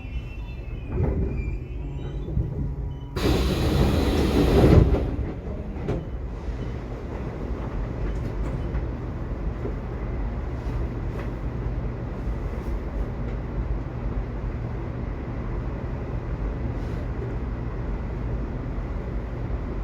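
Subway train running, a steady low rumble of wheels on the track. About three seconds in, a loud rush of hissing noise cuts in and stops abruptly after about a second and a half.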